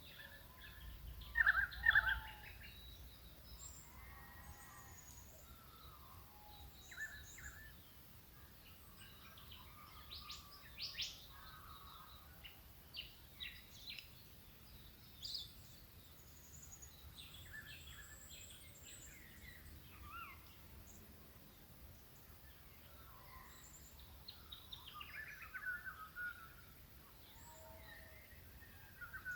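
Several wild birds calling across a rural bush valley in the early-morning chorus: scattered short chirps, trills and whistles overlapping, the loudest cluster about two seconds in. A faint low rumble lies underneath.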